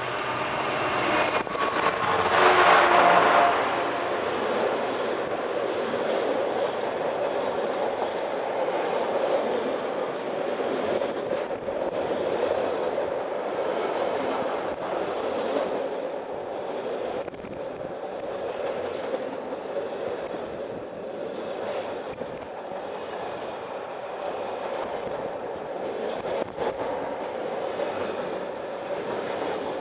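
Class 66 diesel-electric locomotive passing close, loudest about two to three seconds in. It is followed by the steady rumble of a long rake of intermodal container wagons rolling past, with occasional wheel clacks over the rail joints.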